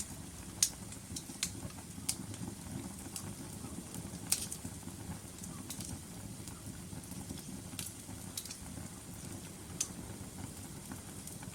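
Burning logs in a fireplace crackling: sharp, irregular pops every second or so over a low, steady rumble of the flames.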